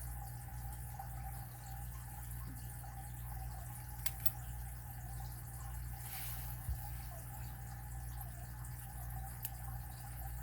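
A few small sharp clicks of a lock pick and tension wrench working the pins of a Master Lock 410 padlock, heard over a steady low hum.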